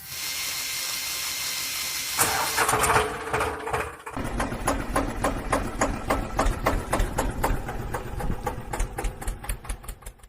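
An engine starting: a couple of seconds of whirring cranking, then it catches about four seconds in and settles into a steady chugging idle of about four to five beats a second.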